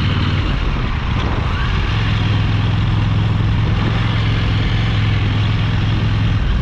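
KTM motorcycle engine running steadily under way, its note stepping up about two seconds in and holding, then easing near the end, with wind and road noise rushing past.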